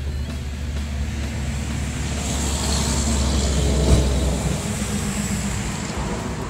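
Jeep Wrangler JK engine running steadily on its new battery, with a single thump about four seconds in. The low engine note fades out soon after.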